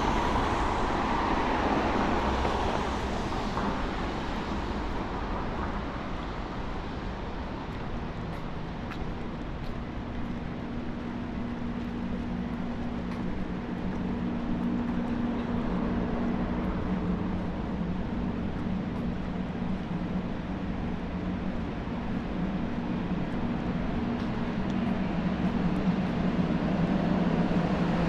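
City street traffic in the rain: a vehicle passes in the first few seconds, then a steady low engine hum sets in about eight seconds in and holds over the wash of traffic noise.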